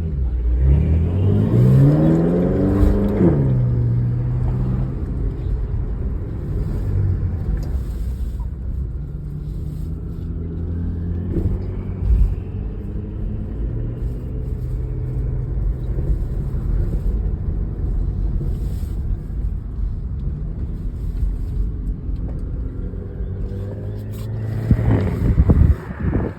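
BMW M5 engine and exhaust under hard acceleration: the pitch rises steeply over the first few seconds and then drops, followed by a long steady cruise. It rises again near the end and cuts off sharply.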